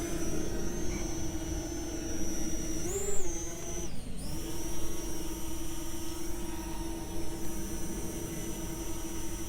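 Parrot Anafi quadcopter's motors and propellers humming steadily in flight. The pitch rises briefly about three seconds in, dips a second later, then settles back to a steady hum.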